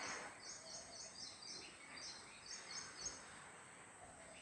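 Small birds chirping in short, rapid trilled phrases, repeated several times for about three seconds over a soft background hiss.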